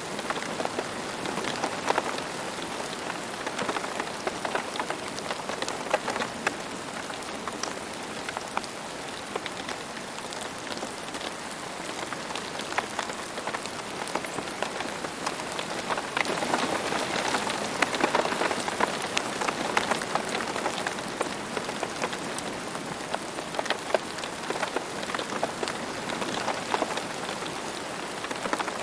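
Steady rain falling, with many individual drops striking close by as sharp little taps over the even hiss; it swells a little about halfway through.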